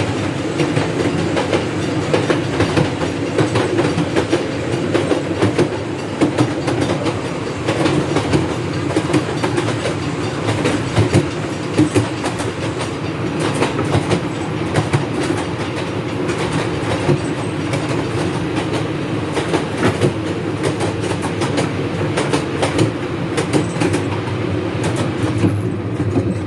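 Miniature railway train running along the track, heard while riding: steady running noise with frequent sharp clicks of the wheels over rail joints.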